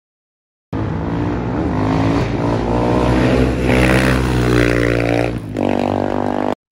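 Dirt bike engine revving under throttle, cutting in about a second in, its pitch held high and then falling away, followed by a steadier engine note after a short break near the end.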